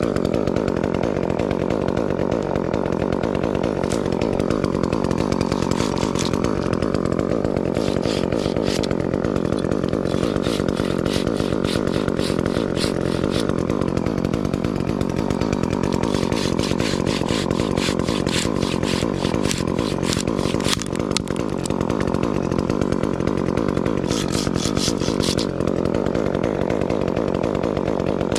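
Gas chainsaw running and cutting wood, its engine note sagging and recovering a few times under load.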